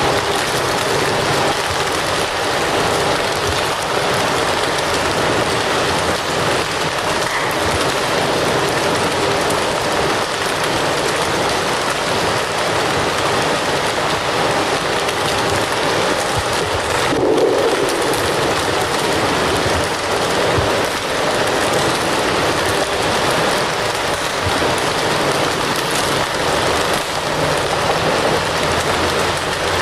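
Fire crackling steadily, a dense run of small pops over a constant hiss.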